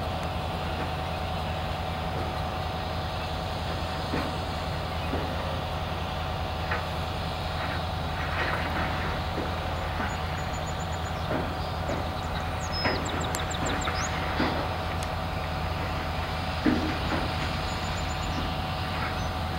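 Slow-rolling ballast dump train: a steady low diesel engine drone, with scattered clanks and knocks from the side-dump cars as they roll by.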